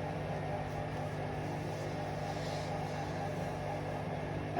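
Hoover Vision Dynamic washing machine running steadily early in a spin-only cycle, before the drum speeds up to spin. A steady hum with no change, and a short knock at the very end.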